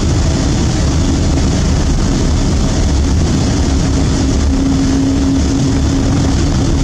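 Cabin noise of a Boeing 777-200 on the ground just after landing. Engine noise and a deep rumble run steadily and loudly, with a steady hum that fades about two seconds in and comes back near the end.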